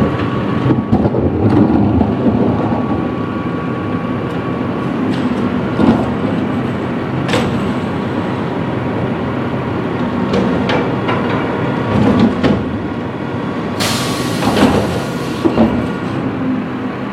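Recycling truck's diesel engine running steadily, with several sharp clanks and knocks. A loud hiss comes about three-quarters of the way through.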